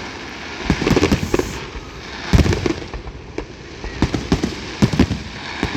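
Aerial fireworks bursting in quick, irregular volleys of bangs, the loudest a little over two seconds in.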